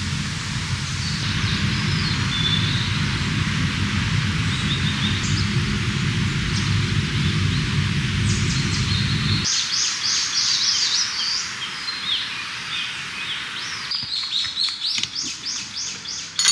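Songbirds chirping and twittering, with quick rattling runs of short high notes. A low steady rush underneath cuts off abruptly a little past halfway.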